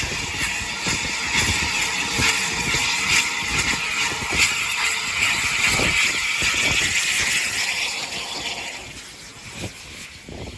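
A train passing with a steady hiss and rattle that fades away about three-quarters of the way through.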